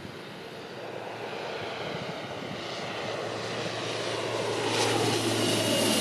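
Airliner's engines growing steadily louder as the aircraft approaches, loudest near the end, with a faint high whine coming in.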